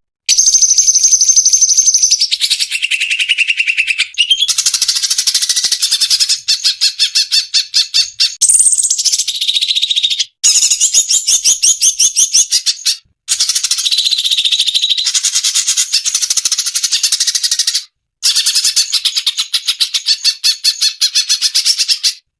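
Cucak cungkok birdsong: loud, rapid high chattering trills and whistled phrases that run on almost without a break, cut by a few very short silent gaps.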